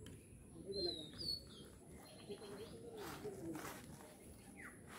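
Wild birds calling: a short, bright whistled call that dips and rises in pitch, given twice about a second in, over faint background chirping, with a soft rustle around three seconds in.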